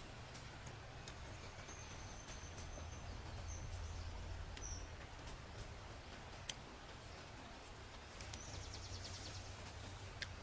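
Quiet forest ambience with a steady low rumble. A thin, high bird whistle comes a couple of seconds in and again around four seconds, a quick high trill follows near the end, and a few sharp clicks sound throughout.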